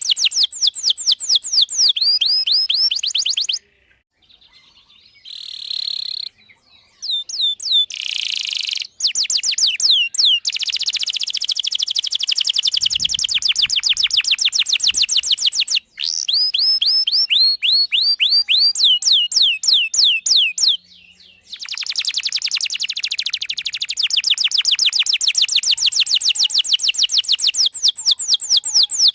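Domestic canary singing: long trills of rapid, repeated high chirps, each note a quick downward sweep, broken by a few short pauses.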